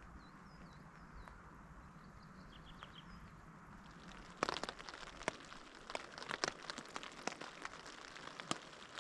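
Faint, brief high chirps of a small bird over steady outdoor background noise. From about halfway, a run of irregular sharp clicks and knocks.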